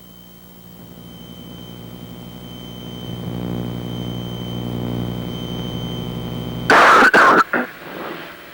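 Piston engines of a light twin-engine airplane droning steadily, heard from inside the cockpit and growing louder over the first few seconds. Near the end comes a loud, harsh burst of noise about a second long, broken into several pieces.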